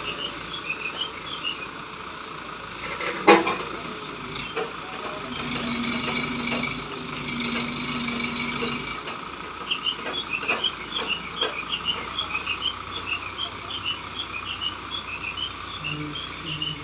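A hydra mobile crane running steadily at work, with a steady low hum for a few seconds mid-way and one sharp knock about three seconds in. Many short, high chirps sound over it at the start and through the second half.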